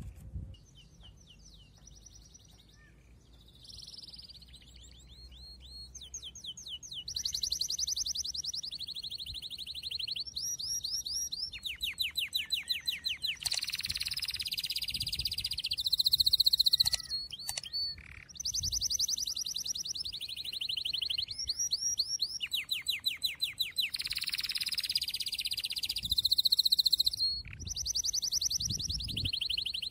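A songbird singing in long phrases of high-pitched rapid trills and chirps, with short pauses between phrases.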